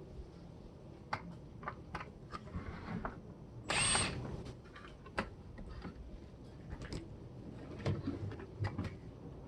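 Scattered clicks and knocks of hand tools and plastic appliance parts being worked apart for scrap, with one louder scraping burst about four seconds in.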